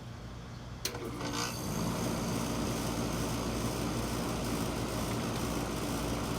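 2012 3-ton Goodman GSX13 central air conditioner outdoor unit starting up: a sharp click about a second in as the contactor pulls in, then the compressor and condenser fan come on, building over about a second into a steady running hum with fan noise.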